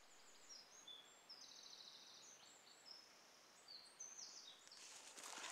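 Faint birdsong: a small bird singing a run of short, high chirping notes that step up and down in pitch. A rustling begins near the end.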